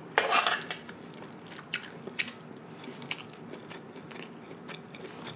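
Close-miked chewing of food, with a louder crunch just after the start and then a few sharp, scattered crunching clicks.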